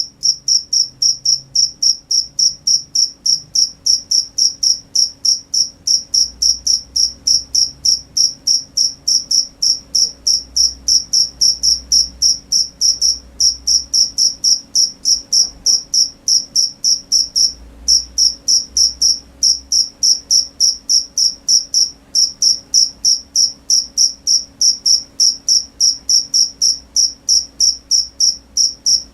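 A cricket chirping loudly and steadily, about three chirps a second, in an even rhythm with one brief pause partway through.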